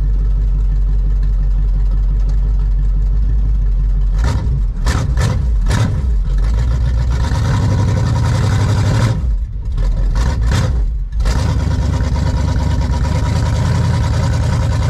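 1971 Chevrolet Chevelle wagon's engine running after a cold start from two months' sitting: a steady idle for the first few seconds, then uneven from about four seconds in, with surges and two brief dips.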